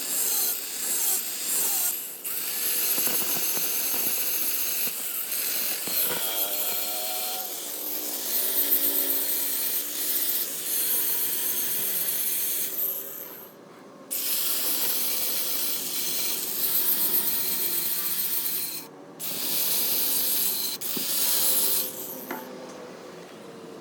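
Rough rasping and grinding of a tool working on metal, in long stretches with brief breaks about 14 and 19 seconds in.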